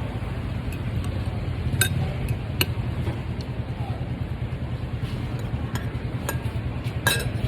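A low, steady engine hum with a fast pulsing beat, broken by three sharp clinks.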